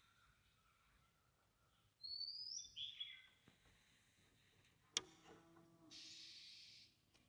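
Faint birds calling: a short upward-sweeping chirp about two seconds in, followed by lower chirps. A single sharp click with a brief ringing tone about five seconds in, and a short hissing sound near six seconds.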